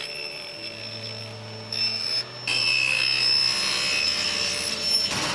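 Table saw running and cutting through the crosscut sled's epoxy-filled zero-clearance slot, a steady high whine that grows louder about two and a half seconds in as the blade cuts.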